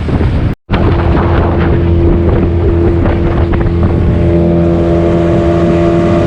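Small boat's outboard motor running steadily, with a low rumble and a steady hum, over wind and water noise. The sound cuts out for an instant about half a second in.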